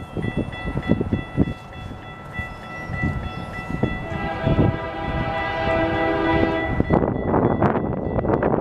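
Train horn sounding over the rumble and clatter of a train. The horn swells into a louder, fuller blast about halfway through and cuts off about a second and a half before the end.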